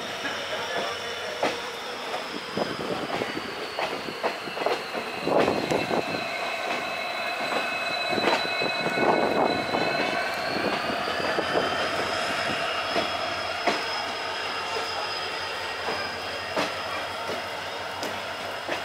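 Passenger train running, heard from on board: wheels knocking irregularly over the rails, with a steady high-pitched squeal that sags in pitch and climbs back about ten seconds in.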